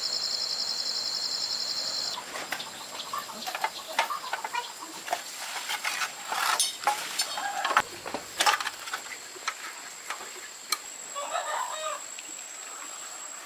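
Chickens clucking in short irregular bursts. For the first two seconds a high, pulsing insect trill runs under them, then stops abruptly.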